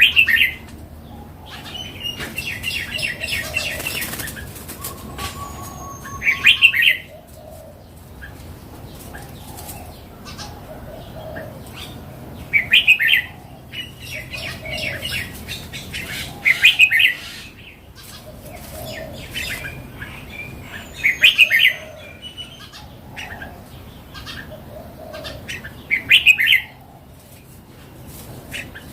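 Red-whiskered bulbul singing: short, loud, warbled phrases repeated about every four to five seconds, with fainter chirps and clicks between them.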